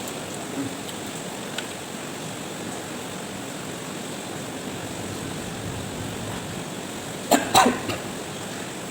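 A person coughing twice in quick succession about seven seconds in, while eating food mixed with very hot crushed-chili sambal, over a steady background hiss.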